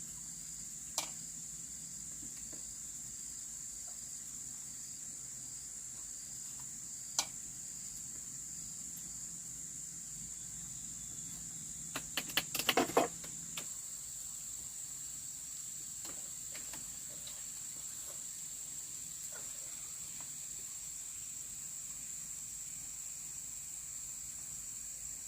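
Steady high-pitched insect chorus that runs on without a break. A few sharp clicks or knocks cut through it, with a quick run of them about halfway through.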